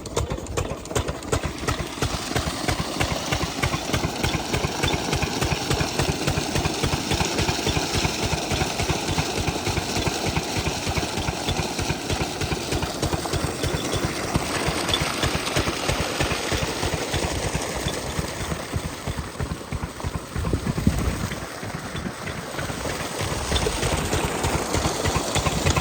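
12 hp diesel engine of an irrigation water pump set running steadily, a fast, even knocking of its firing strokes, with a short dip in level about 21 to 24 seconds in.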